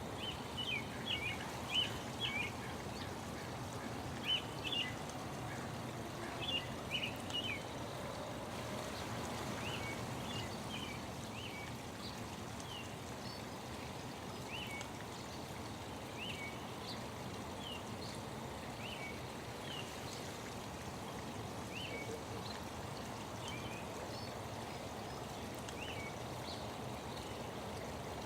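Small birds chirping in short, high calls, busy for the first several seconds and then more scattered, over a steady rush of running water.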